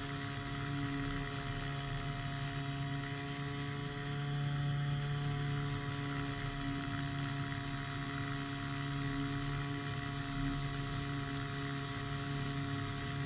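Powered hang glider's engine and propeller running at a steady speed in flight, a constant drone with a fixed pitch.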